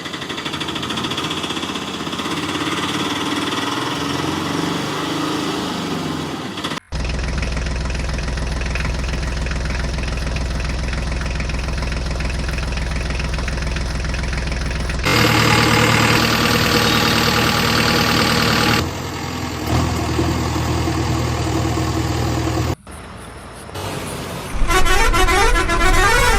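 Steady horn-like vehicle tones in several sections, each cut off abruptly and replaced by the next.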